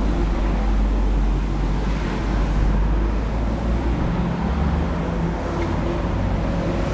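A vehicle engine running steadily: a continuous low rumble with a few faint steady engine tones above it.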